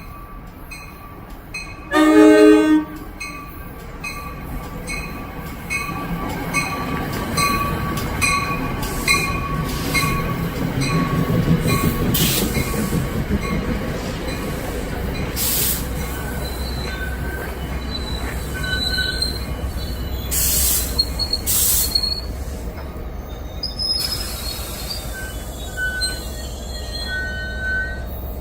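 An NJ Transit train sounds a short horn blast about two seconds in, then runs through the station with a growing rumble and short high wheel squeals.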